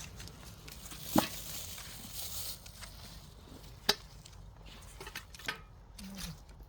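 Soil being dug and scraped by hand in a sweet potato field, with two sharp knocks about a second in and near four seconds.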